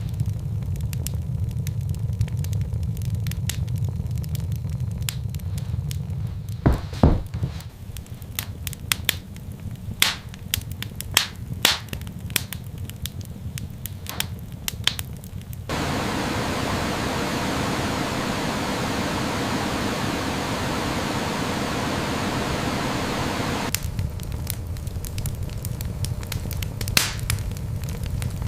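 Sharp crackles and pops over a low rumble. From about sixteen seconds in, a steady rushing hiss takes over for about eight seconds before the crackling returns.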